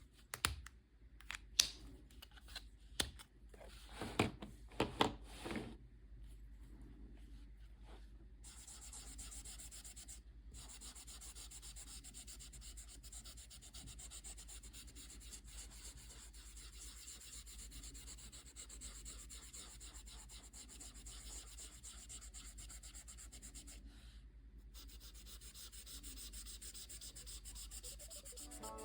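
Drawing on paper: a steady scratchy rubbing of a drawing tool stroking across the sheet, after a few sharp clicks and taps in the first few seconds, with two brief pauses in the strokes.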